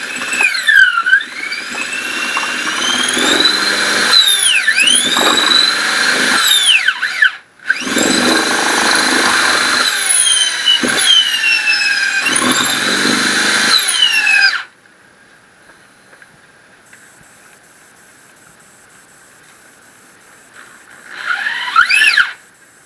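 Power drill running under load on a wooden bowl blank, with a squeal that sweeps up and down in pitch. It stops about two thirds of the way through, leaving a low hum, then runs again briefly near the end.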